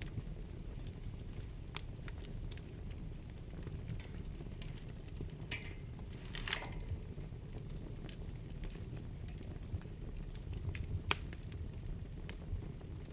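Wood fire burning in a fireplace: a steady low rumble of flame with scattered sharp crackles and pops. A brief hiss comes about halfway through, and one louder pop a couple of seconds before the end.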